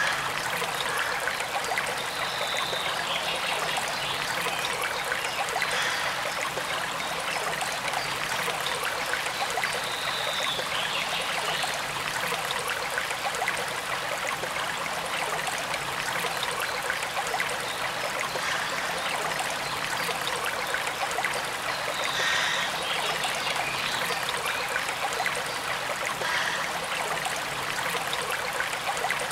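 Forest stream running steadily, an even rushing and trickling of water. A few faint short bird calls come through now and then.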